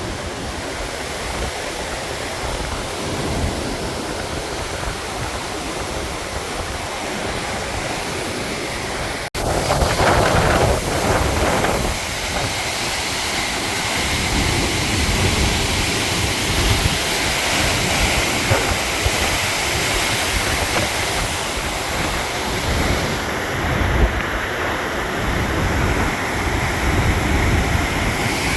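Krimml Waterfalls, a high tiered mountain waterfall, rushing steadily. About nine seconds in the sound breaks off for an instant and resumes a little louder, with wind buffeting the microphone.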